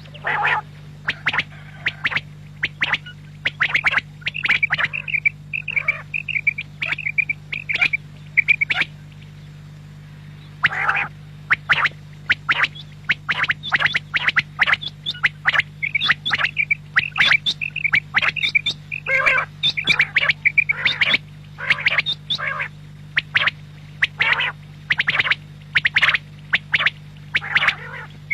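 Quail calling over and over in quick, short, sharp notes, with a pause about nine seconds in. A steady low hum runs underneath.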